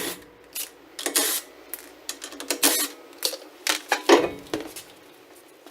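Irregular clicks, knocks and short scrapes of hand tools and metal parts being handled, about a dozen spread unevenly.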